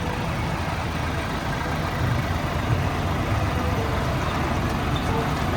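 Tractor engine running steadily under way, a low pulsing rumble with road noise.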